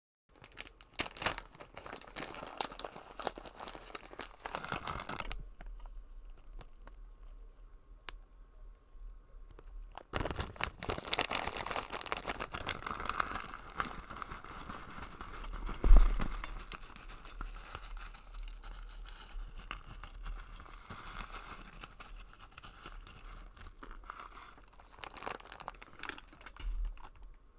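Close-miked eating sounds of noodles: irregular crackles and wet clicks of chewing and handling food, with a louder knock about 16 seconds in.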